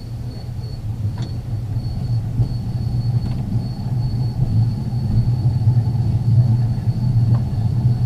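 Ex-Liverpool Corporation tram 869 rolling along the track with the power off and the air brake released. Its wheels and running gear give a steady low rumble that grows louder as it gathers speed, with one short click about a second in.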